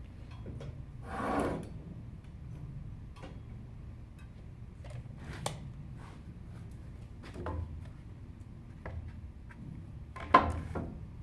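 Wooden birdhouse parts being handled: a brief scrape about a second in, scattered light knocks and clicks, and a sharper wooden knock near the end.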